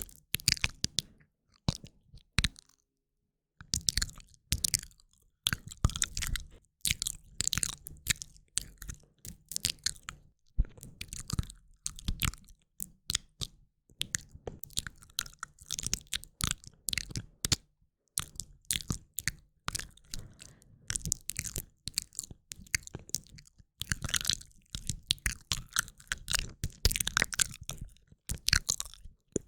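ASMR mouth sounds close to the microphone: quick runs of wet clicks and smacks of the lips and tongue, with a brief pause a few seconds in.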